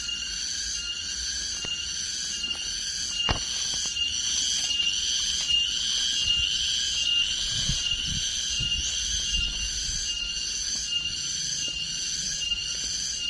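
Insects chirping in a dense high chorus, pulsing steadily about twice a second, with a few sharp knocks.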